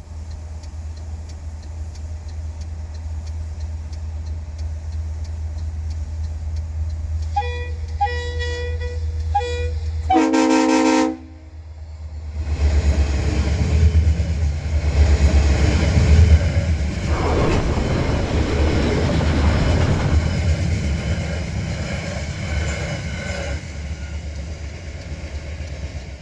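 Diesel-hauled coal train approaching with a steady low rumble. Several short toots sound about seven seconds in, and at about ten seconds the locomotive answers with a loud, one-second blast of its multi-tone air horn. The train then passes close by, the locomotive and coal wagons rumbling and clattering on the rails, slowly fading near the end.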